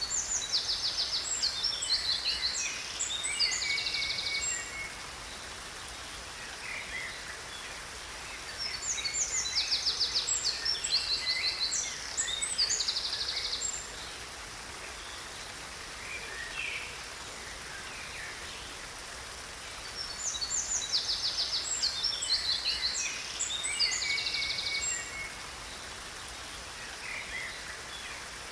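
A songbird singing a busy phrase of rapid high trills and chirps, the same phrase recurring three times about ten seconds apart, over the steady rush of a waterfall.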